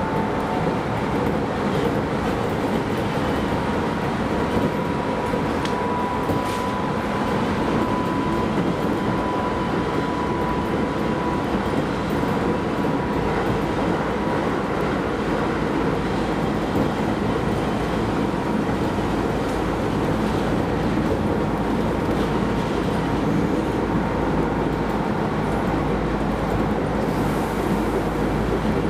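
Keisei Line rapid train running, heard from inside the front car: a steady rumble of running noise, with a faint whine that rises slightly in pitch over the first ten seconds or so.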